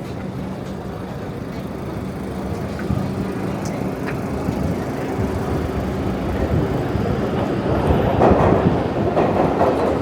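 Street traffic: a steady low motor hum from a nearby vehicle, with a vehicle passing and growing louder about eight seconds in.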